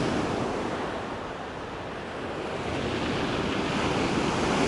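Sea waves washing on the shore, the surf falling away and then swelling again as the next wave comes in, with some wind on the microphone.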